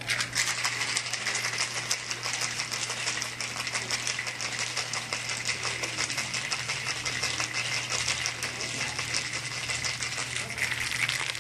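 Ice cubes rattling in a cocktail shaker during a long, thorough shake: a fast, dense clatter that keeps going and stops just before the end.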